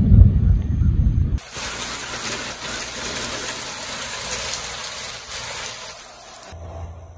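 Loud low wind rumble buffeting the microphone, then, from about a second and a half in, rain falling steadily as an even hiss, which cuts off shortly before the end.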